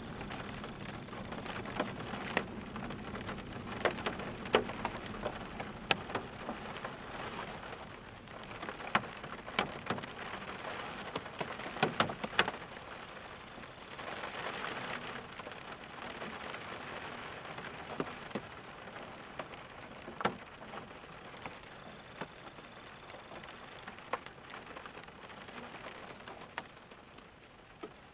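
Steady rainfall with frequent sharp drops tapping on a near surface. The rain swells briefly louder about halfway through.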